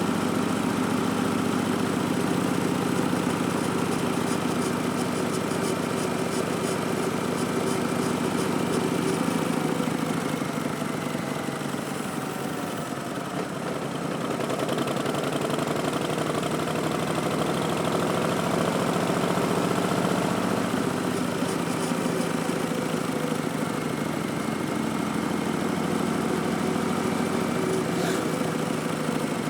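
Harley-Davidson Street Bob's Milwaukee-Eight V-twin running through Vance & Hines Twin Slash slip-on mufflers at low revs while riding. The engine eases off briefly about halfway, then pulls up steadily in pitch for several seconds before the note drops again, as with a gear change.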